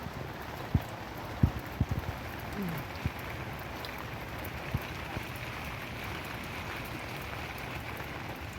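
Steady rain falling, with a few short dull thumps in the first five seconds.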